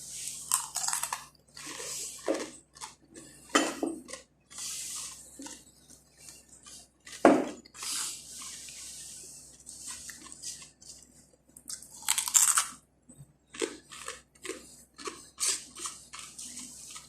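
A person chewing crunchy fried khubz flatbread: irregular crisp crunches, a few of them louder bites.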